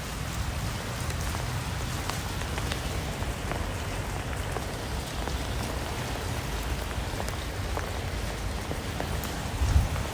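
Steady rain with individual drops clicking through a constant hiss and a low rumble underneath. Near the end a louder low rumble swells in.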